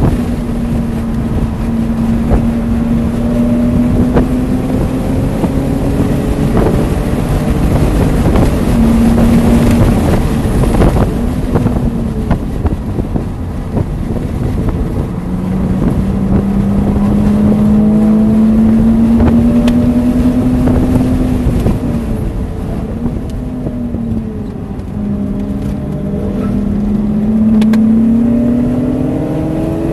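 BMW Z3's engine at track pace, heard from inside the cabin over heavy road and wind noise. Its note climbs steadily under acceleration, breaks off and drops as the car lifts and brakes for corners, then climbs again near the end.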